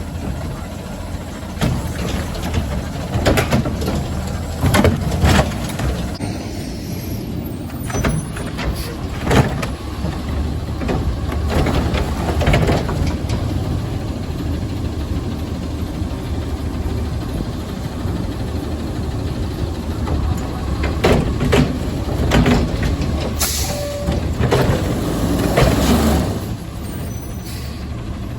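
Front-load garbage truck's diesel engine running, with repeated metallic knocks and bangs and a sharp air-brake hiss about three quarters of the way through.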